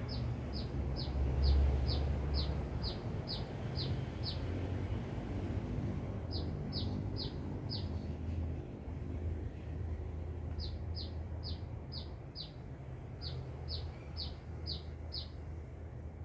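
Sunbird (Indonesian 'kolibri') singing: runs of short, sharp, high chirps at about two to three a second, in four phrases with pauses between them. A low, steady rumble lies underneath.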